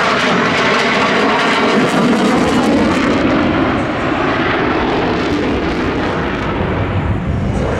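Leonardo AW249 Fenice attack helicopter flying past, loud. Its high-pitched part fades after about three seconds while the deep part grows.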